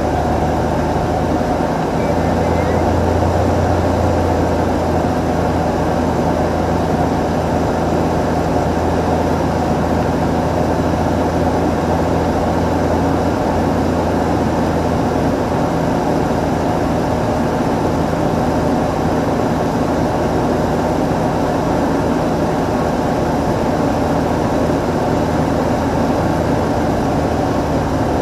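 Cessna 182 in flight: the steady drone of its piston engine and propeller, with a low hum that grows stronger about a second in and eases off about halfway through.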